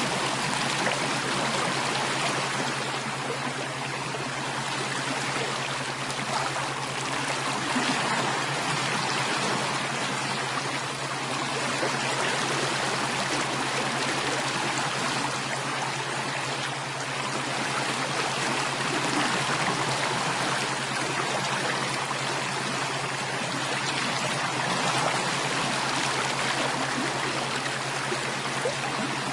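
Water running steadily in a stream, an even rushing and trickling, with a steady low hum beneath it.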